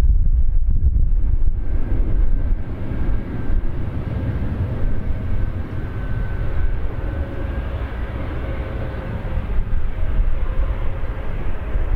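Airbus A350-900's Rolls-Royce Trent XWB turbofan engines at takeoff power: a steady low rumble with a faint whine over it.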